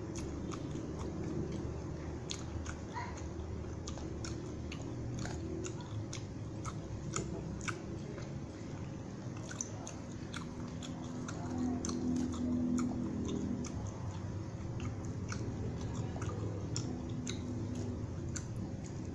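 Close-miked mouth chewing with wet smacks and many sharp, irregular clicks, a person eating beef rendang and rice.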